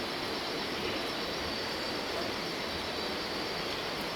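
Steady, even rushing of a waterfall, with a faint thin high tone held steadily above it.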